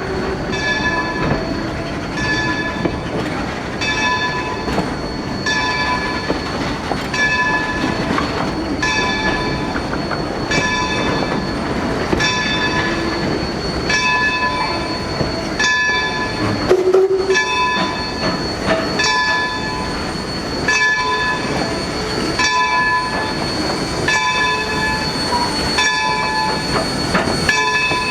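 Baldwin #26 0-6-0 steam locomotive's bell ringing in steady, evenly spaced strokes as it backs its excursion cars, over the rumble of the moving train. A short low whistle note sounds about 17 seconds in.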